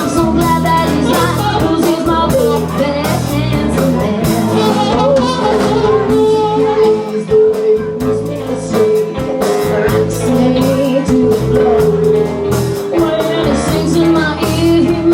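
Live band playing a song: drum kit keeping a steady beat under guitar, with long held notes.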